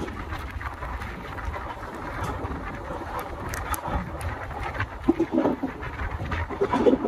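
Moving passenger train heard from an open coach door: a steady low rumble of wheels on track with wind noise. Short pitched sounds come in twice in the second half and are the loudest moments.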